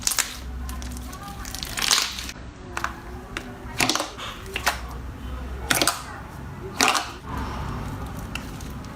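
Slime being pressed and squeezed by hand, giving sharp crackling pops about every one to two seconds.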